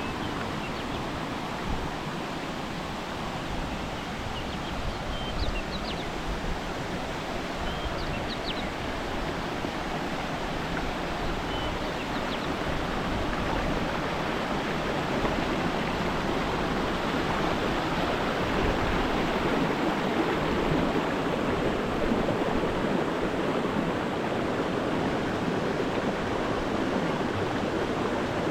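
Steady rush of running water in the jungle, growing gradually louder through the second half, with a few short high bird chirps in the first half.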